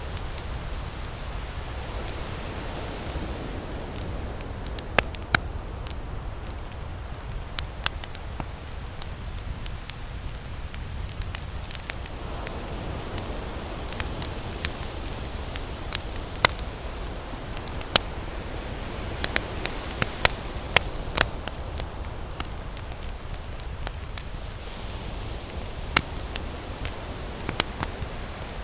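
Wood campfire crackling, with irregular sharp pops and snaps a few times a second. Beneath it runs a steady low rush of surf that swells and eases.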